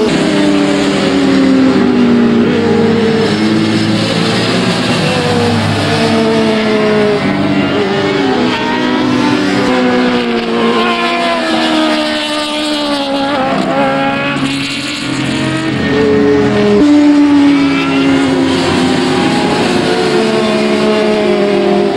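Several racing motorcycle engines at high revs. Their pitch climbs and drops back repeatedly as they change gear, with a short dip in loudness about two-thirds of the way through.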